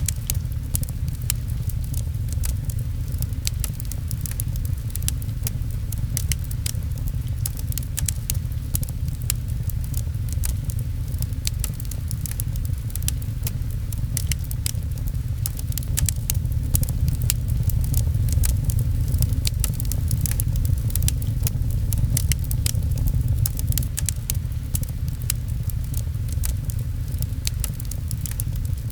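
Wood fire crackling with frequent sharp pops, over gentle rain patter and a steady low rumble.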